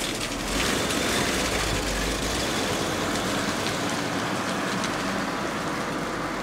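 1962 Lincoln Continental's 430 cubic-inch V8 running as the car pulls away, the exhaust sound slowly fading as it drives off.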